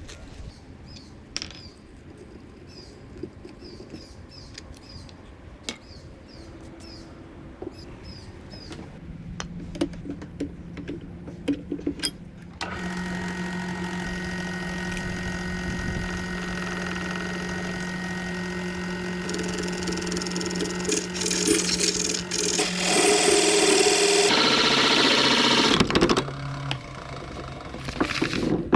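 Quiet handling clicks, then a lathe motor switches on about halfway through and runs at a steady hum. Near the end, a loud scraping hiss rises as a tool works the spinning bamboo.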